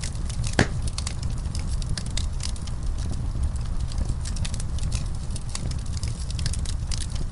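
Wood fire burning in a fireplace: a steady low rumble with many irregular crackles and snaps, one louder pop about half a second in.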